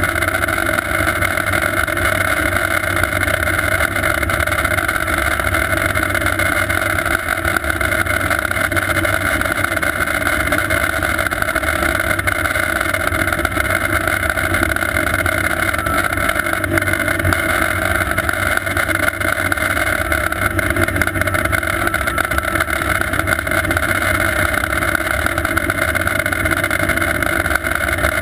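Sikorsky S-58T twin-turbine helicopter running steadily: a constant turbine whine over loud, flickering low rotor noise, with no change in pitch or level.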